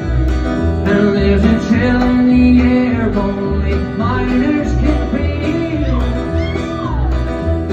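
Live acoustic country-bluegrass band playing: guitar over a steady bass beat about twice a second, with a lead melody line that slides up and down in pitch.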